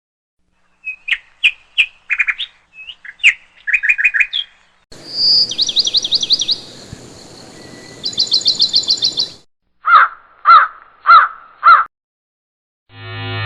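A run of short bird clips cut one after another. First comes a scatter of quick high chirps. Then fast repeated trilled notes over a faint background hiss. Near the end there are four evenly spaced, lower, harsher calls about half a second apart.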